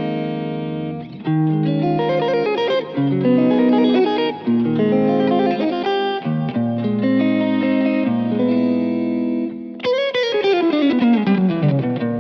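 Vola OZ V3 MC electric guitar playing sustained chords and melodic lines, with a long falling pitch glide about ten seconds in.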